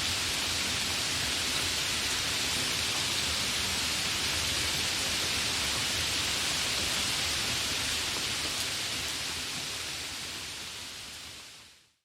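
Steady rain falling during a thunderstorm, an even hiss that fades out over the last two seconds.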